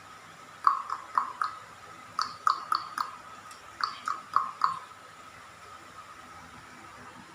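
A parrot calling in three quick bursts of about four short, sharp chirps each, a second or so apart.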